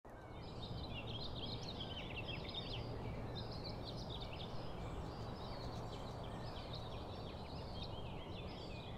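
Dawn chorus of many small songbirds chirping and singing over a steady low background hum.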